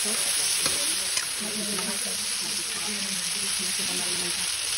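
Chicken pieces sizzling steadily as they fry in oil in a steel wok, with a few light clicks and scrapes from a metal spatula stirring them against the pan.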